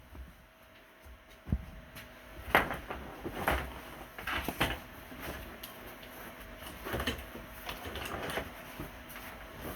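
Scattered knocks and rustling handling noises, about six short ones spread out with quieter stretches between.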